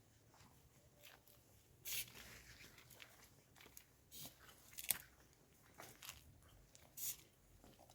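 Near silence broken by a few faint, short crunches and clicks, the clearest about two, five and seven seconds in.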